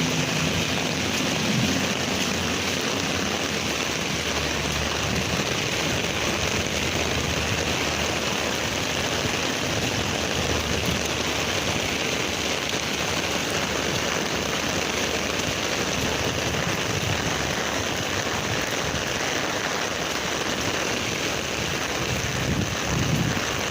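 Heavy rain falling, a steady, even hiss of rain with no letup.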